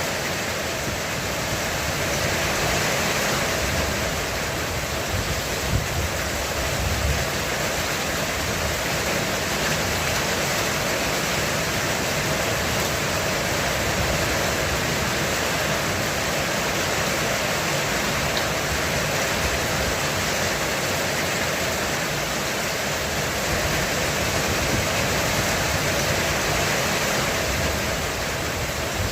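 Heavy rain falling on a roof, a steady dense hiss with no breaks.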